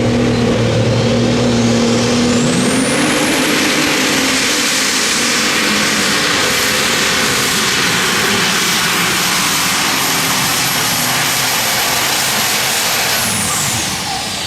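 Turbocharged diesel engine of an Unlimited Super Stock pulling tractor running wide open under load during a pull. A high turbo whine climbs in the first few seconds, holds, then falls away near the end as the engine comes off full power.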